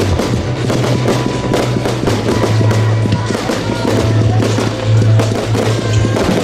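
Fireworks going off in quick, irregular cracks and bangs over loud music that has a held bass line.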